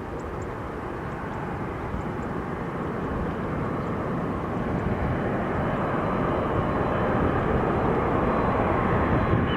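Boeing 747-8F freighter's four GEnx-2B turbofan engines on landing approach: a steady jet rumble and hiss that grows gradually louder, with a faint whine coming in over the last few seconds.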